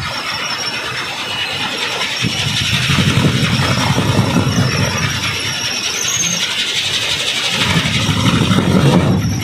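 Wooden kolecer (Sundanese wind propeller) spinning in the wind, a loud, rough whirring drone with a fast flutter that swells and eases.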